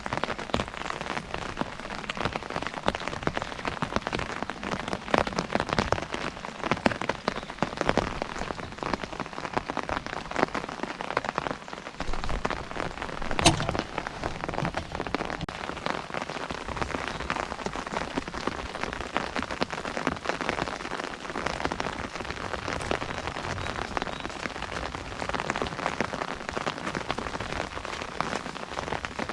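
Rain pattering on an umbrella held overhead: a dense, steady patter of drops striking the canopy, with one louder, sharper drop strike about halfway through.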